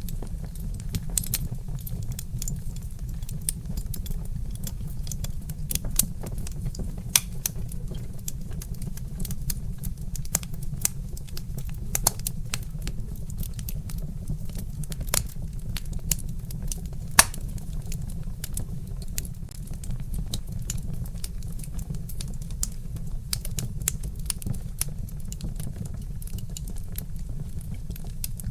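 Wood fire crackling, with frequent irregular snaps and pops over a steady low rumble, and one louder pop a little past the middle.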